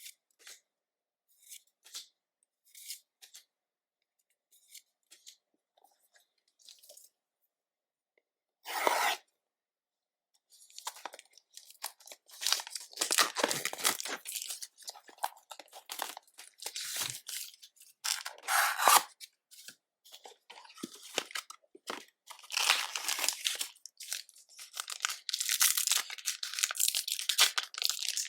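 Faint light ticks and clicks, then a short loud rip just before nine seconds in, then from about ten seconds on a steady crinkling and tearing of foil trading-card booster pack wrappers being torn open.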